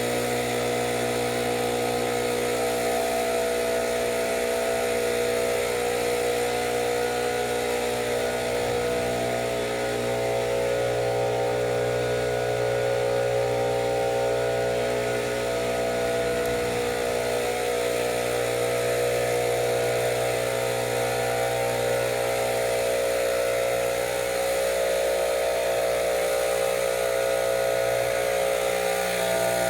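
A steady motor drone, running evenly and unchanging in pitch.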